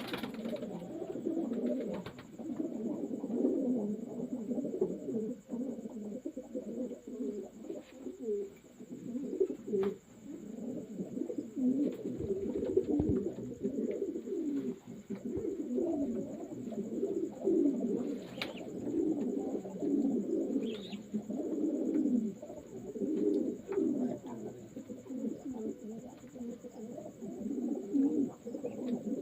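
A flock of domestic racing pigeons cooing continuously, with many low coos overlapping one another.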